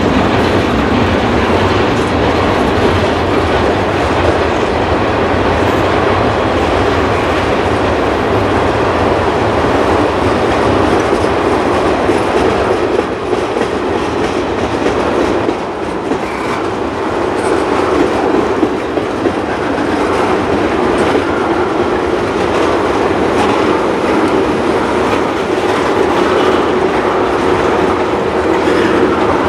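Freight train tank cars rolling past close by: the steady, loud rolling noise of steel wheels on rail.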